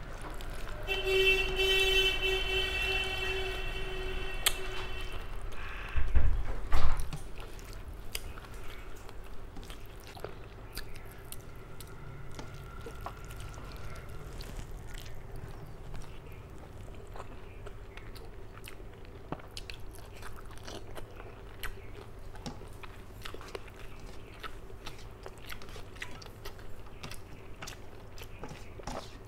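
Close-miked chewing and lip-smacking of a person eating rice and fish curry by hand, with many small wet clicks and fingers squishing rice on a steel plate. Near the start a steady high-pitched hum holds for about four seconds, and a couple of loud low thumps come about six seconds in.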